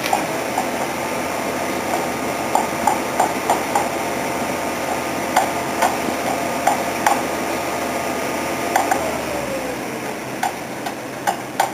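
Pile-driving rig's engine running steadily, with irregular sharp metallic clanks over it. The engine's tone slides down about nine seconds in.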